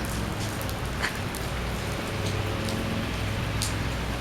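Steady summer rain falling and pattering on surfaces, with scattered sharp drop ticks.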